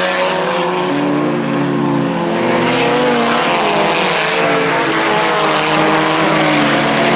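IMCA Sport Compact race cars, four-cylinder compacts, running at racing speed as a pack. Several engines are heard at once at different pitches, rising and falling as the cars pass and change throttle.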